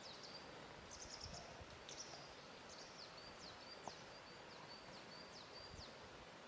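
A small songbird calling faintly and repeatedly: short high chirps, some sliding down in pitch and some flat, about two a second, over a faint steady hiss of lakeside ambience.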